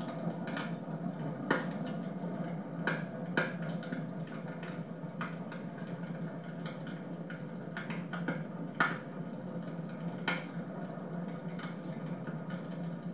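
Wood fire burning in a fireplace, crackling with a steady low rush and scattered sharp pops, a handful of them louder than the rest.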